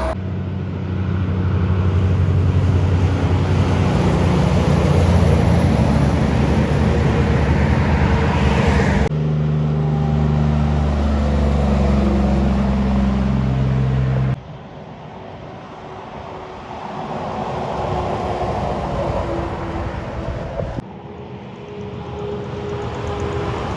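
Heavy diesel Kenworth trucks' engines running as they drive by, in four short takes that cut abruptly from one to the next. The first two takes are the loudest, with a deep, steady engine drone.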